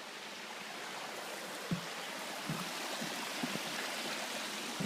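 A creek's rushing water makes a steady, even rush, broken by a few soft low thumps.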